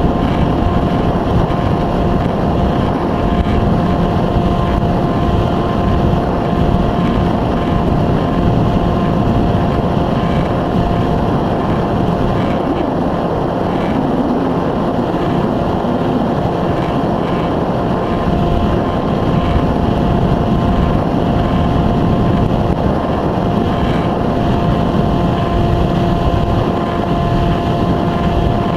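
Electric pusher motor and propeller of an Easystar 2 RC foam plane running at a steady speed with a constant whine, mixed with heavy wind buffeting the microphone.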